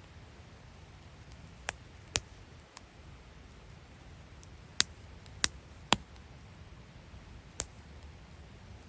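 Wood fire crackling, with about seven sharp pops at irregular intervals over a low steady background.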